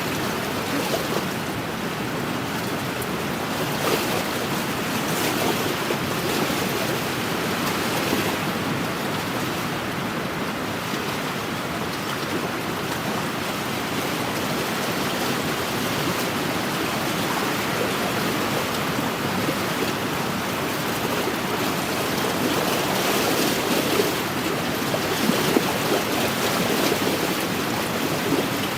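Wind-driven waves lapping and washing against a lakeshore, a steady rushing wash that swells and eases every few seconds, with wind.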